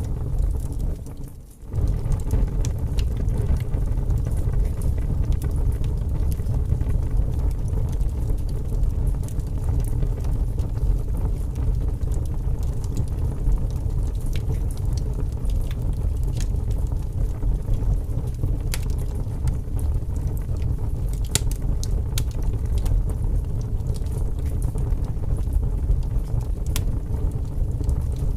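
Wood fire burning in a fireplace: a steady low rumble of the flames with scattered sharp crackles and pops. The sound briefly dips and comes back about a second in.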